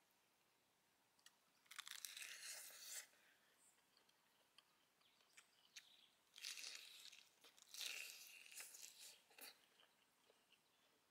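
Crisp lettuce leaves crunching as a lettuce wrap of roasted duck is bitten into and chewed, in three bursts about two, six and a half and eight seconds in.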